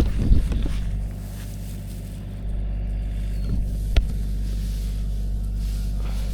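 An engine running steadily at a low, even idle, briefly quieter for a second or so, with a sharp click about four seconds in.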